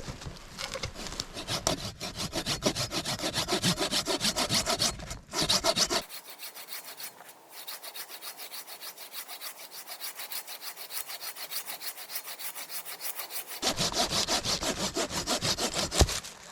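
Hand saw cutting through wood in steady back-and-forth strokes, about three a second, with a short pause partway through and a single knock near the end.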